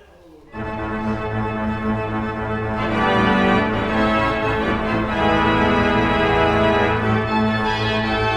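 Church organ playing the opening of a toccata: full chords over sustained low pedal notes come in about half a second in, with quick moving notes above, and the sound grows fuller and louder about three seconds in.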